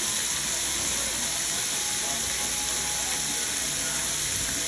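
Stir fry sizzling in a hot pan: a steady, even hiss.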